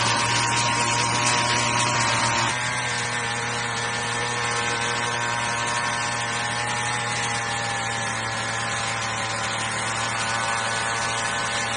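Small four-stroke engine of a mini rotary tiller running steadily, dropping to a lower, quieter speed about two and a half seconds in and then holding steady.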